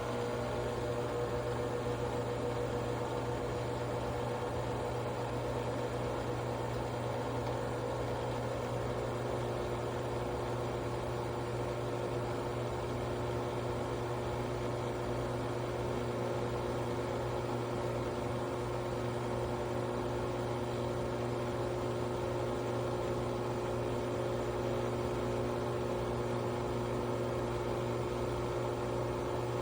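Nespresso Vertuo Next brewing: a steady whirring hum from the machine spinning the capsule and pumping water, with a few steady tones. A further low tone joins about a third of the way in.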